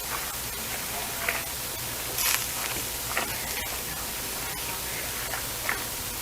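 A spoon stirring food in a kitchen, making a few short scrapes and clicks over a steady hiss; the strongest is a brief hissing scrape about two seconds in.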